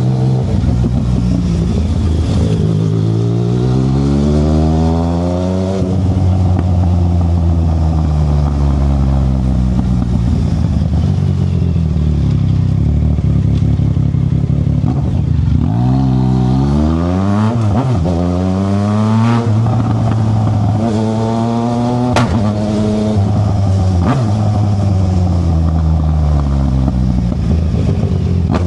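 Yamaha Tracer 900 GT's three-cylinder engine through an aftermarket Black Widow exhaust, accelerating through the gears on the move: the engine note rises and drops back at each upshift, holds steady for a while, then climbs through several quick shifts after about sixteen seconds before easing off near the end.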